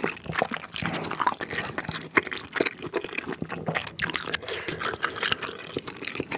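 Close-miked chewing of a mouthful of spicy tteokbokki rice cakes, a dense irregular run of wet mouth clicks and smacks.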